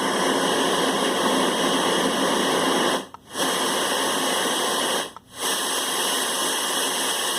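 LectroFan white noise machine playing a steady, very high-pitched white noise hiss. It cuts out briefly twice, about three and five seconds in, as the machine steps to the next white-noise setting.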